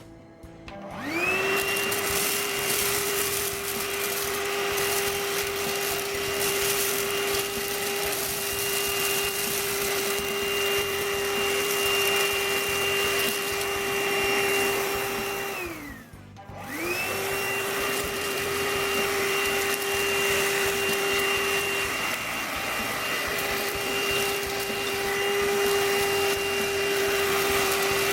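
Ainope cordless handheld vacuum cleaner switched on: its motor spins up with a rising whine and runs at a steady pitch. About halfway through it winds down and stops, then is switched on again and spins back up to run steadily.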